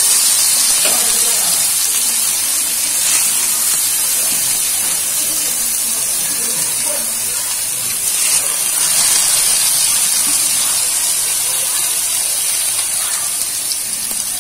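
Egg-soaked bread slices sizzling steadily in hot ghee on a dosa tawa.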